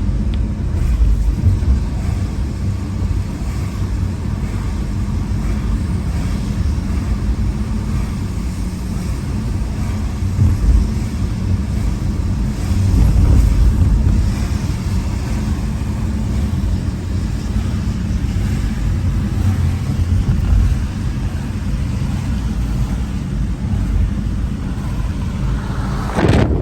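Car driving on a street: a steady low road rumble that swells briefly about halfway through.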